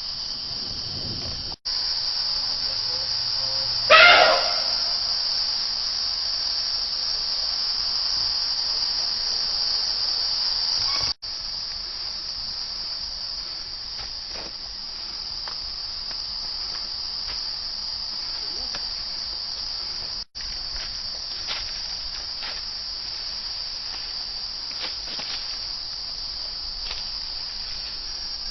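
Steady, shrill chorus of crickets or similar insects, unbroken except where the sound cuts out briefly three times. About four seconds in there is one short, loud sound, the loudest moment.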